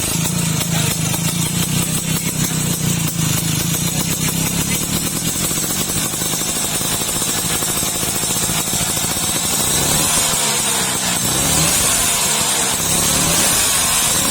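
Old Vespa scooter's two-stroke engine running through an AJS racing exhaust, idling steadily, then revved up and down a few times over the last few seconds.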